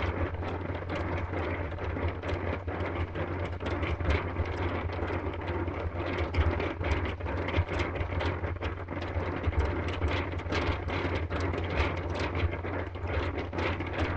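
Small hand-turned toy ice-cream maker packed with ice and rock salt being cranked, the ice rattling and scraping with many small clicks, over a steady low hum.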